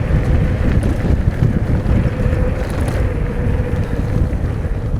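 Wind rumbling on the microphone as an electric mountain bike rides a rough dirt trail, with a faint steady whine from the e-bike's motor.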